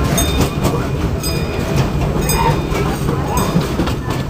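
Disneyland Railroad narrow-gauge train rolling along the track, heard from a passenger car: a steady rumble with irregular clicks and knocks from the wheels over the rails.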